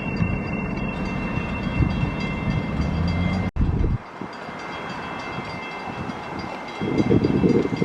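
Train running by: a steady rumble with a thin high whine held over it. The sound cuts off abruptly about halfway through and comes back quieter, then loud uneven low rumbling sets in near the end.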